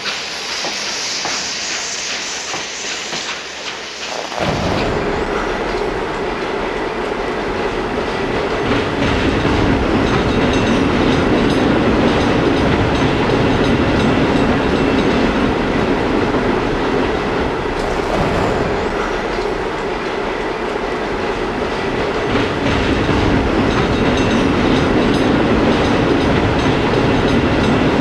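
Train sound effect: a hiss for about the first four seconds, then a train running steadily, with rumble and wheel clatter.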